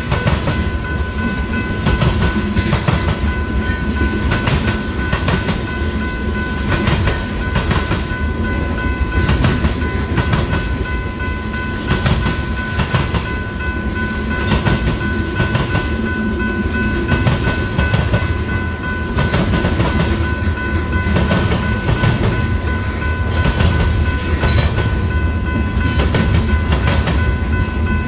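Freight cars of a Union Pacific train rolling past, their steel wheels clattering over the rail diamond crossing in a rapid, continuous clickety-clack over a deep rumble. A steady high-pitched tone runs underneath.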